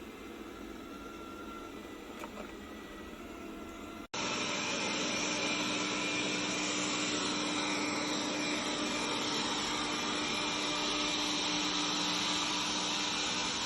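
Faint steady hiss, then, after an abrupt cut about four seconds in, a robot vacuum cleaner running: a louder, steady whir of its suction fan with a faint steady hum.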